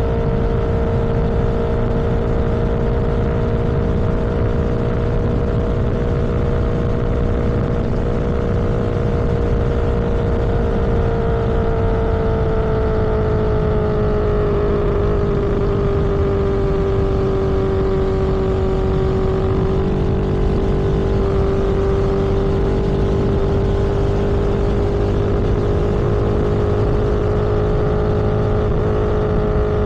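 Vehicle cruising at steady speed on a road: a constant engine and road hum with one strong droning tone. The tone sinks a little about halfway through as the vehicle eases off slightly, then rises again.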